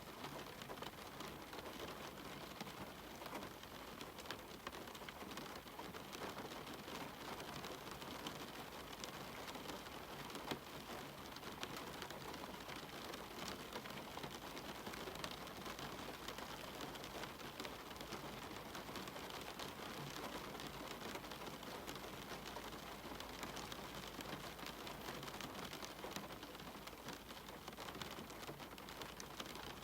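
Steady rain with a dense patter of individual drops hitting surfaces, even throughout.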